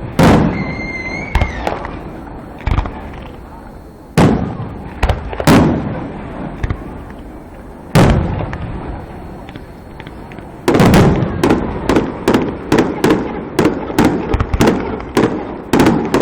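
Fireworks going off: single booms every second or few, with a short high whistle about a second in, then from about eleven seconds a rapid run of bangs, roughly two or three a second.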